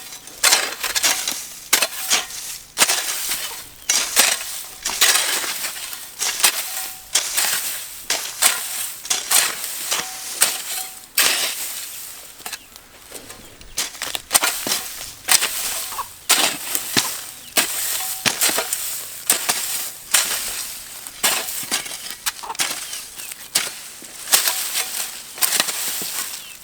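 Hand tool strokes chopping and scraping through dry weeds and soil, about one stroke a second, each with a crackle of dry brush.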